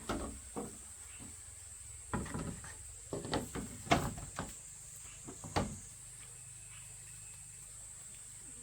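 Hard knocks and clatter in four irregular bursts over the first six seconds, then only a steady high-pitched hiss.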